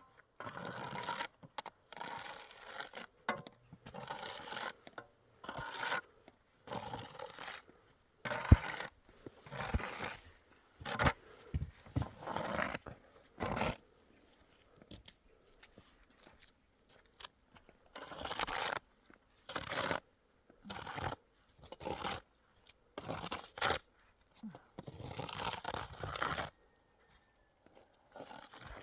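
Irregular bursts of crunching, scraping and crinkling, each lasting from a moment to about a second, with short quiet gaps and a sharp crack about eight and a half seconds in.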